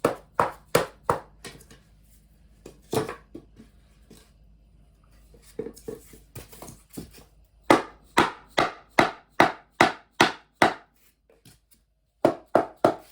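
Repeated hard knocks tapping an interlocking foam-backed compressed-wood sub-floor tile sideways to seat its joint. They come in runs of about three knocks a second with pauses between: one run in the first second and a half, a single knock about three seconds in, a longer run of about eight in the middle, and three more near the end.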